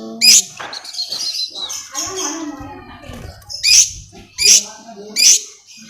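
Long-tailed shrike (cendet) singing: loud, sharp high chirps repeated roughly every three-quarters of a second, with softer warbling and chattering notes between them.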